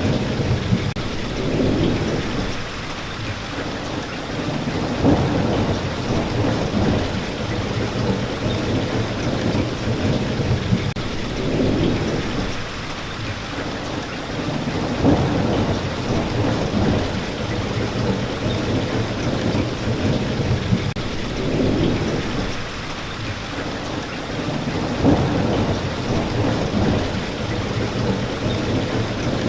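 Steady heavy rain with low rolling rumbles of thunder that swell and fade, peaking about every ten seconds.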